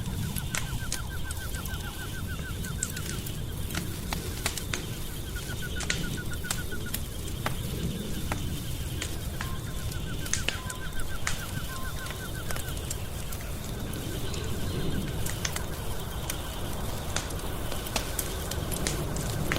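Wood fire crackling, with frequent sharp pops over a low, steady rumble. A rapid pulsing trill comes three times over it, with a faint steady high chirring underneath.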